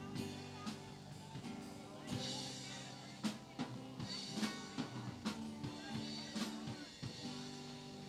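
Live band music: a drum kit playing a beat with snare and bass drum hits over sustained pitched notes from guitar and bass.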